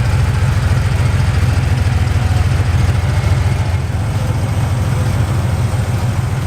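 A car engine running steadily, with a loud, deep exhaust note.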